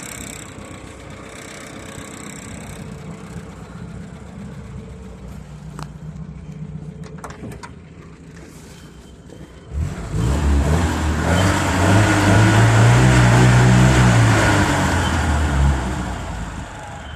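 Volga car engine idling, then about ten seconds in revved hard: the pitch rises, holds for a few seconds and falls back to idle near the end.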